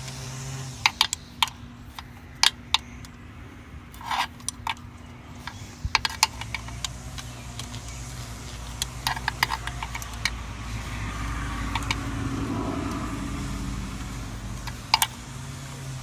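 Sharp metal clinks and taps of hand tools as a wrench works a bolt loose on the Jeep, over a steady low hum. A low rumble swells and fades in the second half.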